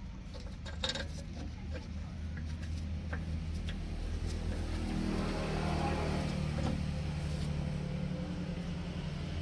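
A vehicle engine running steadily with a low hum, with scattered light metallic clicks and taps; the sound swells a little about five seconds in.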